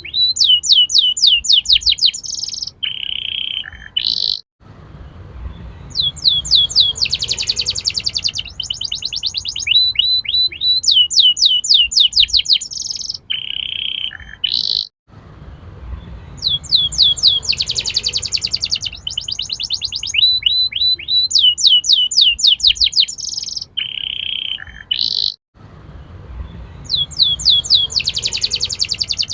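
Domestic canary singing fast rolling trills and sharp chirps. The same song phrase repeats about every ten seconds as a loop, with a brief cut-out between repeats.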